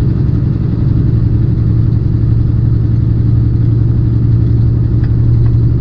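A tractor-trailer's diesel engine running as a steady, low drone while the truck is driven.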